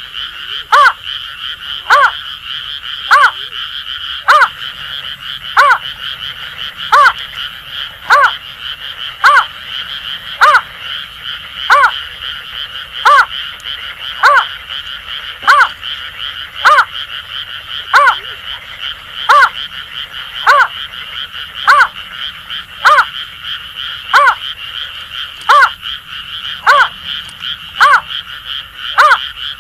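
Greater painted-snipe calling a short hooting note over and over, about once a second, over a steady chorus of Asian grass frogs.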